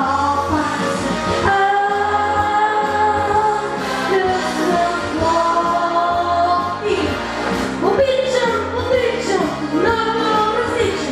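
A young singer performing a pop song over a backing track with a steady bass line.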